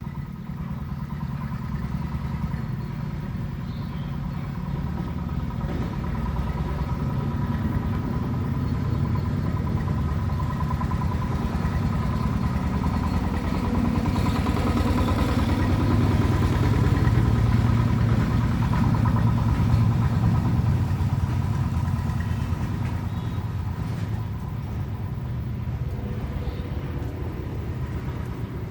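An engine running steadily with a low rumble and a faint whine, growing louder towards the middle and easing off near the end.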